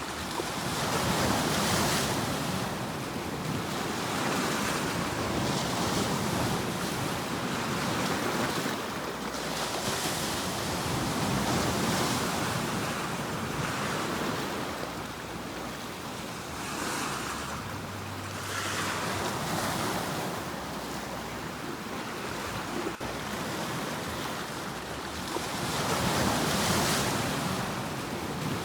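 Ocean waves breaking and washing up the shore, the surf swelling and fading again every few seconds.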